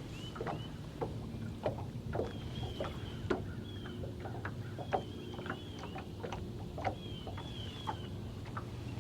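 Fishing boat on the water with a steady low motor hum, scattered short clicks and small splashes, and a bird's brief high chirps repeating every second or two.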